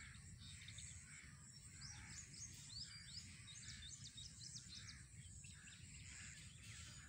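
Faint rural ambience: small birds chirping, with a quick run of short chirps in the middle, over a low steady rumble.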